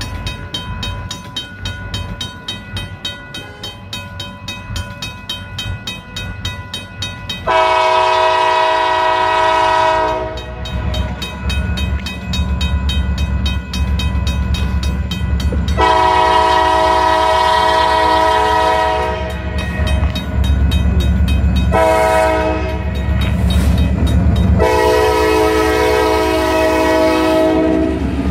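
EMD SD40-2 diesel locomotives sounding their horn in the grade-crossing pattern: long, long, short, long. Under the horn, the locomotives' diesel engines rumble, growing louder from about halfway through as the train draws near.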